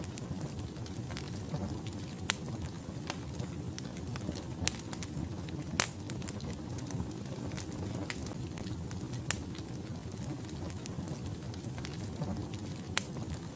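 Wood fire burning in a fireplace: a steady low rushing of the flames with sharp, irregular crackles and pops from the logs, the loudest pop about six seconds in.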